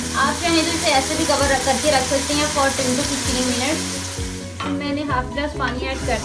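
Onions, tomatoes and garlic sizzling in hot oil in a pressure cooker, over background music. The sizzle fades about four seconds in, leaving mostly the music.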